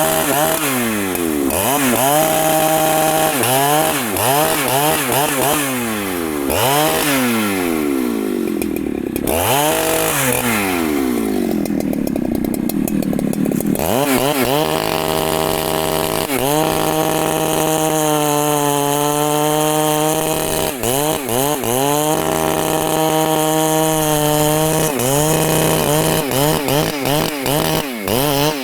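Husqvarna chainsaw cutting wood, the engine at high revs. Its pitch swings up and down over and over for the first half, then holds higher and steadier for the rest, sagging slightly now and then under the load of the cut.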